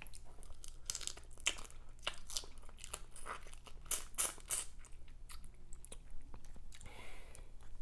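Close-miked eating sounds: a person chewing and biting seafood, with many irregular short wet smacks and clicks of the mouth.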